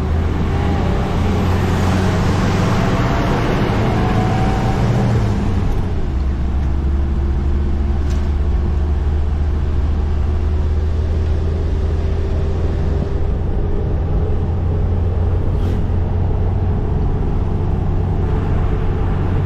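Steady engine and road noise of a moving vehicle, a low drone. It is louder for the first five seconds or so, with a slowly rising tone, then settles.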